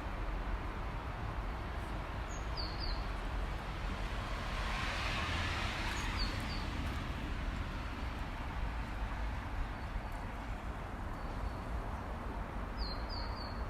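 Steady outdoor wind noise in a snowstorm, with a few short, high bird chirps in small groups now and then.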